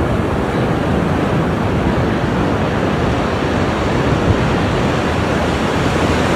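Ocean surf washing onto a shore in a steady, unbroken rush, with no single wave standing out.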